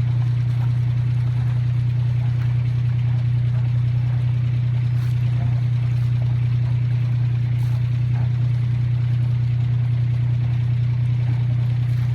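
A 1930 lifeboat's engine running steadily under way: a constant low drone at an even pitch and level.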